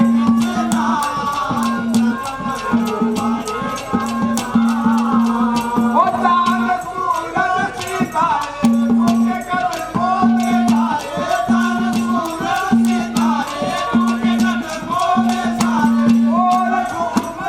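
Instrumental interlude of a live devotional bhajan band: a melody line that bends in pitch plays over quick, dense percussion clicks. A low note is held in repeated stretches beneath it.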